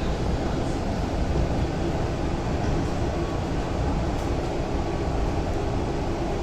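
Mumbai Metro train running: a steady, even rumble with faint steady hum tones.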